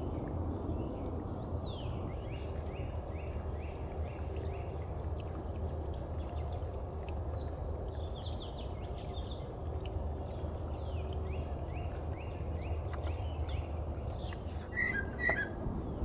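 A songbird singing runs of short, down-slurred whistled notes, about two a second, repeated twice, with a few brighter chirps near the end, over the steady rushing of a small woodland creek.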